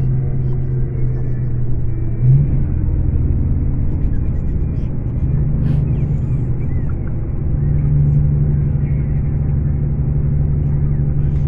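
Scania K410 coach's 13-litre inline-six diesel running with a steady low drone. Its note drops about two seconds in and comes back stronger about eight seconds in.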